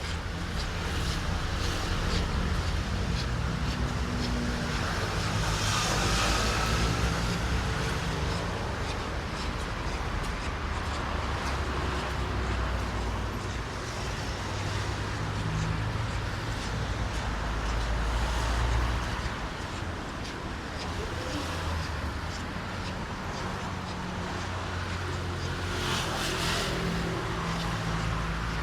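City road traffic: cars running past with a steady low rumble and tyre hiss on wet road, with two louder passes, one about six seconds in and one near the end.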